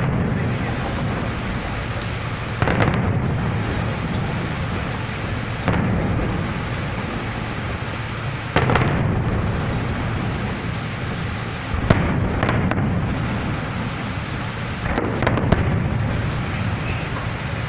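Fireworks going off: a loud bang every few seconds, each followed by a long rumble, over a steady crackle. A quick cluster of sharper cracks comes near the end.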